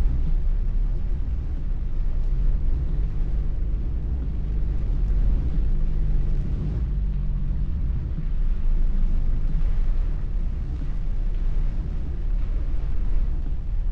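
Car driving on wet roads, heard from inside the cabin: a steady low rumble of engine and tyres with a faint engine hum and a light hiss above.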